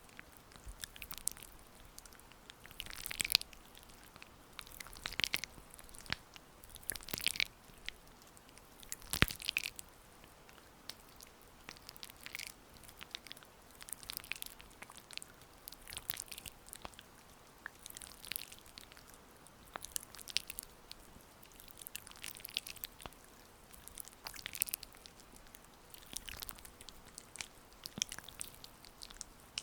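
Oiled hands massaging, making short, slick, wet rubbing and squishing strokes that repeat every second or two.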